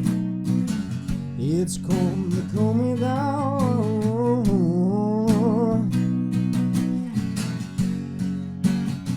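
Strummed acoustic guitar with a man's wordless sung line that slides up about a second and a half in and is held, wavering, until about six seconds in; the guitar carries on alone after that.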